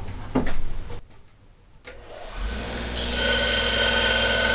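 Electric grinder switched on and spinning up over about a second to a steady high whine, grinding down the Model T fan's head. A short knock comes about half a second before it.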